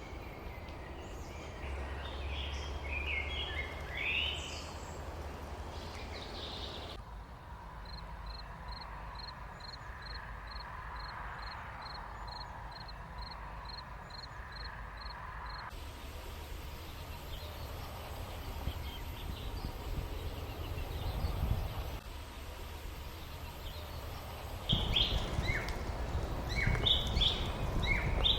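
Rural outdoor ambience: small birds chirping over a low rumble of wind, with the background changing abruptly a few times. In the middle stretch a single high chirp repeats evenly about twice a second.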